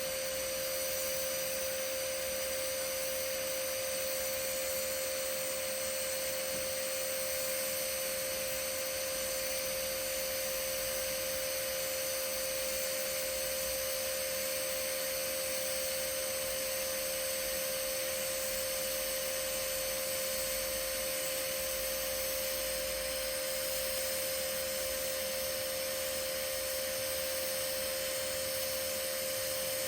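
TIG (GTAW) welding arc burning steadily while a fillet pass is laid: an even hiss with a constant mid-pitched tone, unbroken throughout.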